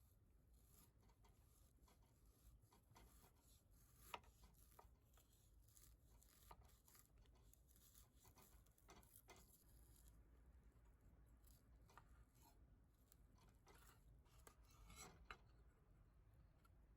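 Near silence: faint room tone with scattered small clicks and brief rustles, a little louder about four seconds in and again near the end.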